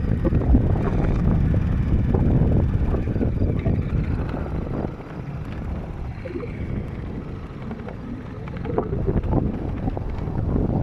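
Daelim S3 scooter on the move, its engine running under heavy wind buffeting on the microphone. The wind and engine noise ease about halfway through and build again near the end.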